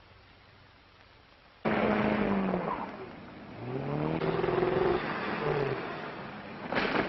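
Propeller airplane engine on an old film soundtrack, cutting in suddenly after a moment of film hiss; its pitch falls, then rises again, and it cuts off abruptly near the end.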